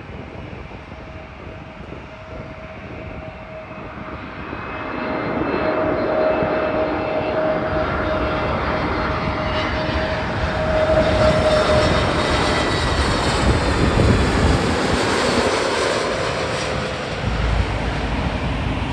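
Jet airliner's engines growing louder as the aircraft approaches and passes, with a steady whine over a broad rush that is loudest about two thirds of the way through.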